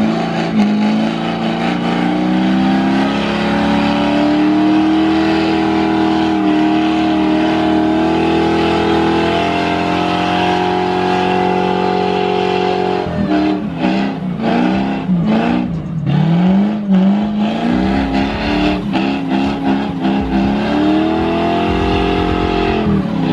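Car engine held at high revs for about twelve seconds, its pitch creeping slowly upward, then dropping off suddenly. It is then revved in several short blips, and near the end rises and falls once more.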